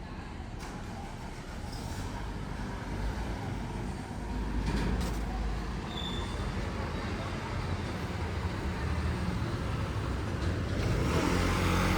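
Road traffic: engines of passing vehicles rumbling, growing louder toward the end as a vehicle comes close.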